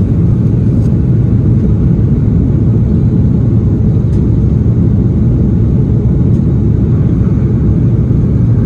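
Steady low rumble of an Airbus A330-300 airliner's engines and airflow, heard inside the passenger cabin.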